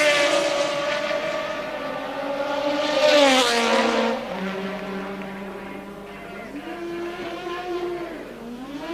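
1983 Formula One cars at full throttle passing by, two of them: one right at the start and another about three seconds in, each engine note dropping in pitch as it goes past. Afterwards a more distant engine note holds steady and climbs again near the end.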